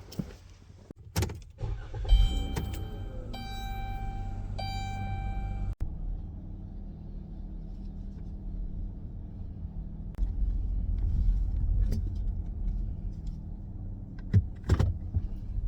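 Dodge Grand Caravan minivan starting up, with a steady multi-tone chime sounding three times over the engine for a few seconds. Then the van's engine and road noise run steadily while driving.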